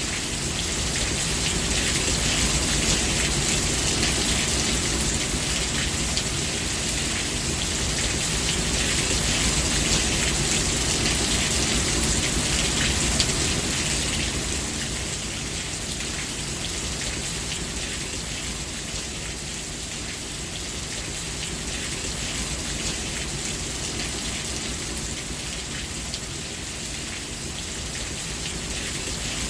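Steady heavy rain falling on a surface, a dense hiss of drops with many small individual drop ticks, swelling a little louder through the first half.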